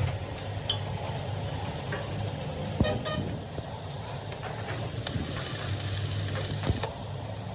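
A vehicle engine running steadily, with a short horn toot about three seconds in and a hiss lasting about two seconds near the end.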